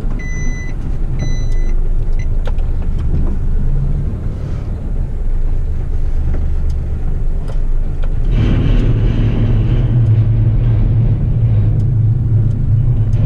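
Heavy rubbish truck's diesel engine running, with two short electronic warning beeps at the start. About eight seconds in, the engine note rises and holds steady under a hiss, as when the engine is revved to drive the hydraulic bin-lifting arms.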